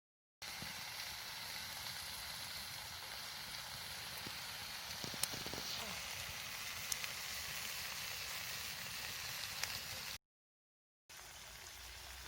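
Meat (burger patties and bacon) sizzling steadily over a campfire, with a few sharp pops of fat or crackle from the fire.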